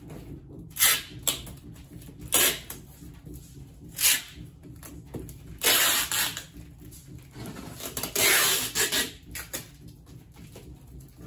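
Packing materials being handled while a parcel is wrapped: a series of short rustling, scraping bursts, about half a dozen, the longest around six and eight seconds in.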